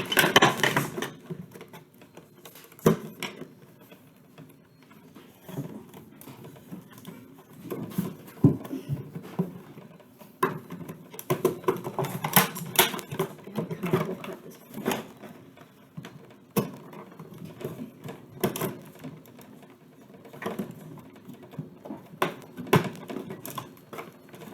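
Cardboard box and plastic packaging being handled and opened by hand: irregular rustling, scraping and light clicks.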